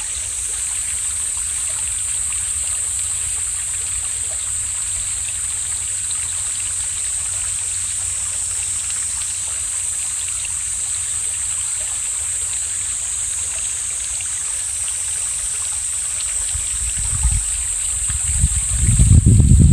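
Mountain stream flowing steadily, an even rushing of water. Near the end, wind gusts buffet the microphone with loud low rumbles.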